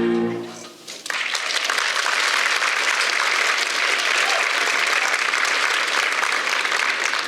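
A choir's final chord fades away, and about a second in an audience starts applauding, steady and dense.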